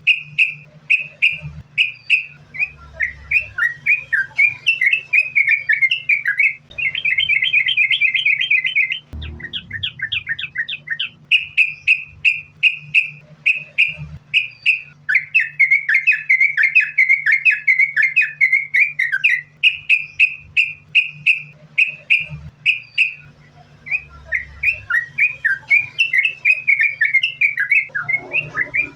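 Yellow-vented bulbul (trucukan) singing without a break: quick, bubbly phrases of short whistled notes, repeated several times a second and run together into fast chattering runs, in the 'sambung ropel' style.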